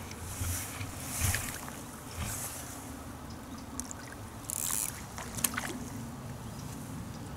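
Hooked barbel splashing and churning at the surface close to the bank in several short bursts, with a few sharp clicks between them.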